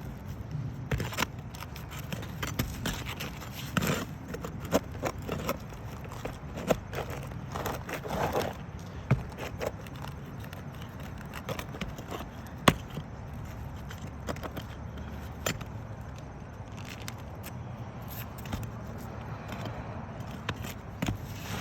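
Irregular scraping, crackling and sharp clicks of a hand tool working under and against asphalt roof shingles, with one louder click about two-thirds of the way through.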